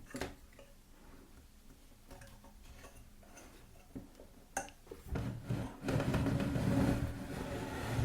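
A few light clicks and knocks of handling. About five seconds in, the Parkside pillar drill's electric motor starts up and runs with a steady hum.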